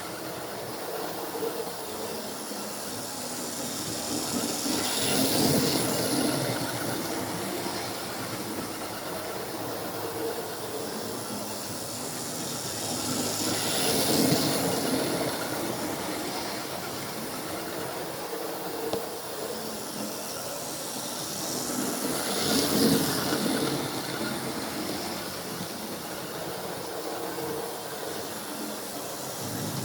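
Model train running round a layout loop, its wheels rumbling on the track with a hiss. It swells up three times, about every eight to nine seconds, as it passes close by.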